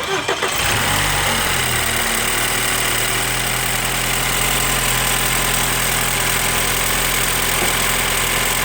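BMW N26 2.0-litre turbocharged four-cylinder engine in a 2012 328i F30 cold-started: a brief crank, and the engine catches about half a second in, flares up, then settles into a steady fast idle. Its running carries an abnormal noise put down to excessive timing-chain slack at 200,000 km.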